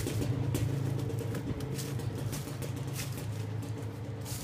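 Suzuki LT250R quad's two-stroke single-cylinder engine idling steadily after warming up, with scattered light clicks over it.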